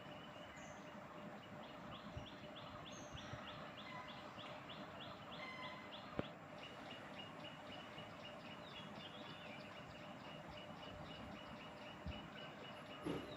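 Faint outdoor ambience with a rapid, even run of high chirps, about four a second. It gives way about six seconds in to a steady high-pitched hum with fainter pulsing, and a single sharp click comes at that point.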